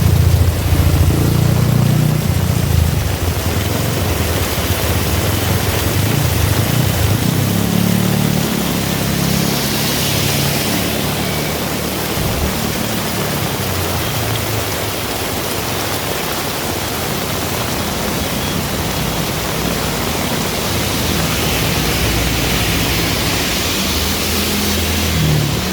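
Heavy rain falling steadily, with the low rumble of passing road traffic rising and fading, loudest in the first few seconds.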